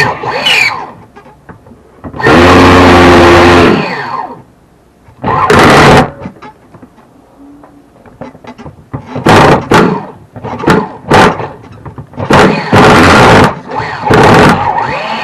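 Repeated bursts of an RC nitro buggy's starter box spinning against the engine's flywheel: first one long spin, then several shorter jabs with pauses between. The engine does not catch, because the flywheel is not lining up with the starter pegs.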